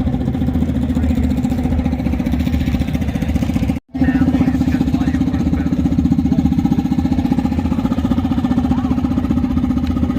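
An engine idling steadily at an even pitch, broken by a brief silent gap about four seconds in.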